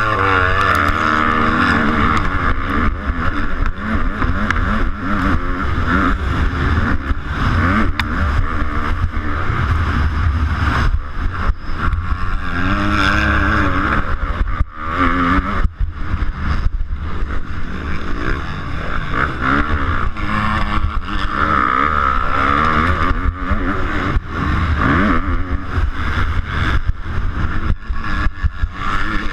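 A 250cc motocross bike's engine racing on track, the throttle opened and closed again and again so the pitch keeps climbing and falling, with a few brief drops in between.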